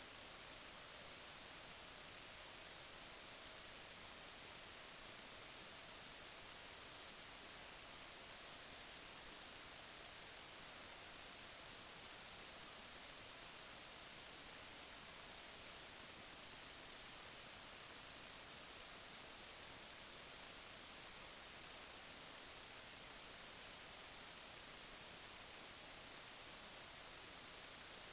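A steady high-pitched electronic whine over an even hiss, unchanging throughout.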